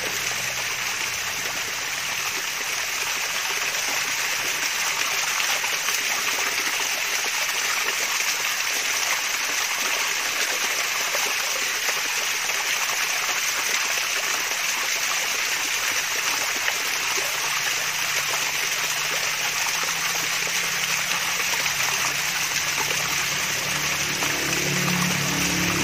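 Water from a small mini waterfall splashing and trickling steadily. A faint low hum joins in near the end.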